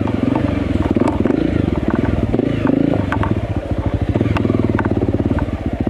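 Enduro motorcycle engine running with the revs shifting up and down, with scattered sharp clicks and knocks.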